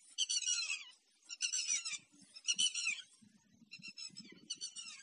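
A small songbird singing short, rapid twittering phrases with falling notes, about one a second, four times. From about two seconds in, a faint low rustling of cows tearing at dry brush as they graze.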